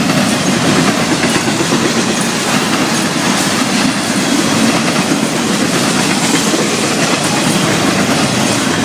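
Florida East Coast Railway freight cars rolling past at speed, a steady, loud rumble of steel wheels on the rails.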